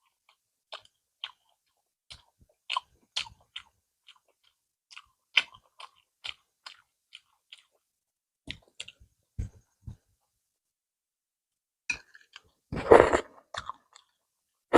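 Close-miked mouth sounds of someone eating: irregular wet clicks and smacks of chewing, with a louder burst of noise near the end.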